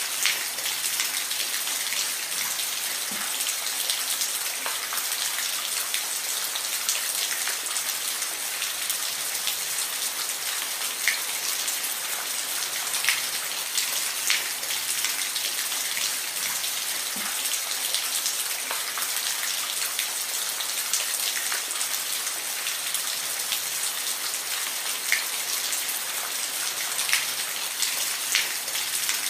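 Steady rain falling, an even hiss with individual drops clicking here and there.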